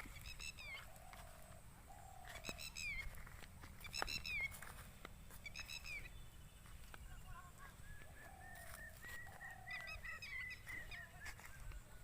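Several birds calling: four loud, harsh, honking calls spaced a second or two apart, with lower drawn-out notes between them. From about seven seconds in, a quick run of high repeated notes is added.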